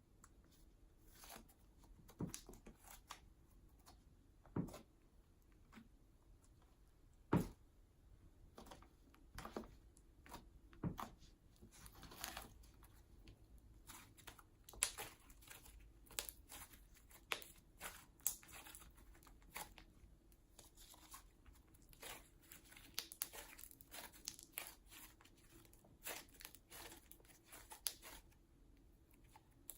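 Hands kneading and stretching several slimes together, crunchy slime with beads mixed with poppy jelly slime, giving faint irregular pops and crackles that come more often in the second half.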